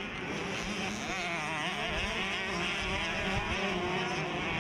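Youth 65cc two-stroke motocross bikes racing, several engines revving up and down over and over as the riders work the throttle.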